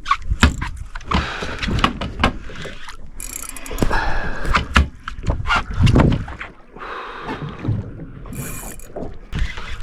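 Fishing reel being cranked during a fight with a hooked shark mackerel, with irregular knocks and bumps of gear against the boat.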